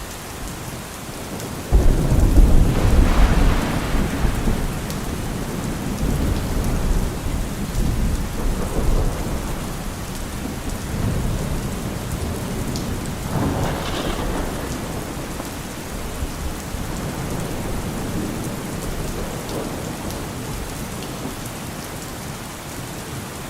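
Steady heavy rain with thunder: a sudden loud crack and deep rumble about two seconds in that rolls on and fades, swelling again twice before dying back to the rain.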